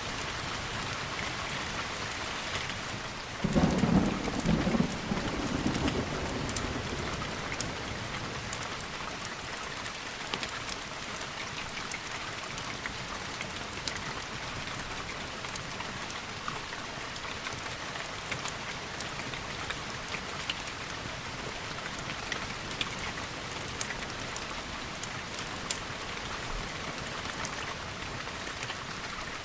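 Steady rain falling, with one sudden clap of thunder about three and a half seconds in that rumbles for a couple of seconds before fading back into the rain.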